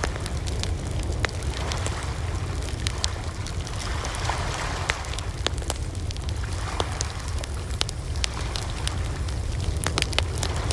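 Wood fire crackling: scattered sharp snaps and pops over a steady low rumble, with a soft hiss that swells briefly about four seconds in.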